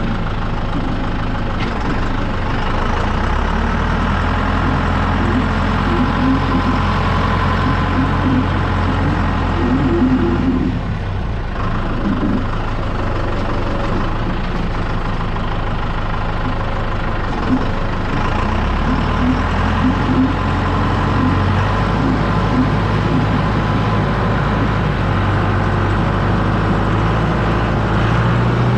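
John Deere 6110D tractor's diesel engine running steadily under load while pulling a disc harrow, its engine note shifting a few times, with a brief drop in level about eleven seconds in.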